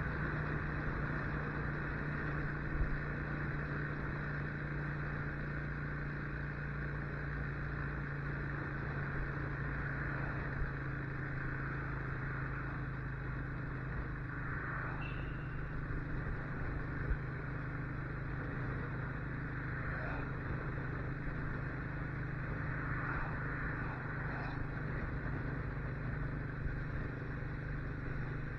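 Motorcycle engine running at a steady speed while riding, its note holding an even pitch with no revving, under a steady haze of road and air noise.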